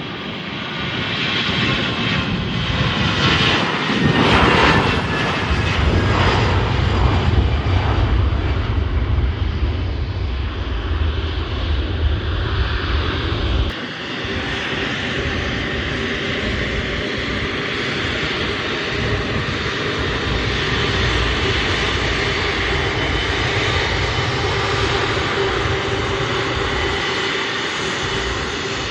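An airliner's engines passing close by, loudest about four to five seconds in, with the pitch sliding as it goes past. About fourteen seconds in the sound drops abruptly, and steadier engine noise carries on.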